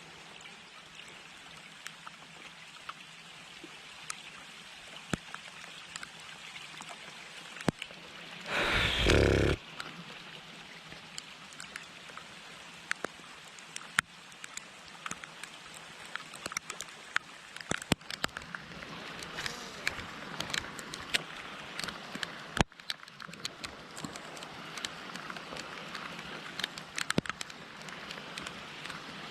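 Heavy rain falling: a steady hiss dotted with many sharp ticks of single drops. About nine seconds in comes a loud rush of noise lasting about a second.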